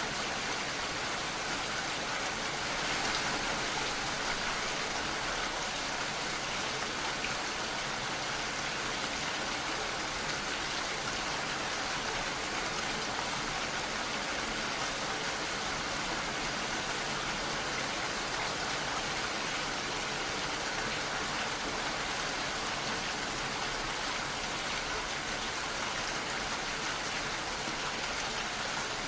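Steady, dense rainfall, an even hiss of many drops with no distinct single impacts.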